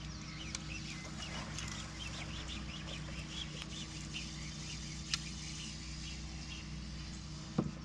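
Birds calling and chirping in many short, scattered notes over a steady low hum, with one sharp click about five seconds in.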